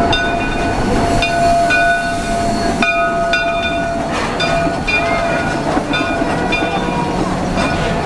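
Narrow-gauge heritage train running along the track, heard from aboard: a steady rolling rumble with one held tone for the first few seconds and short high squeals that come and go over and over.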